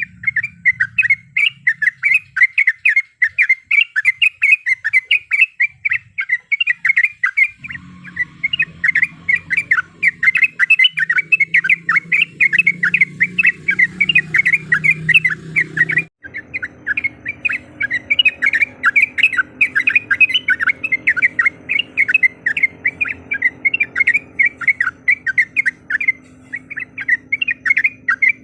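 Yellow-vented bulbul (trucuk) calling in a fast, continuous stream of short, chattering notes without a break.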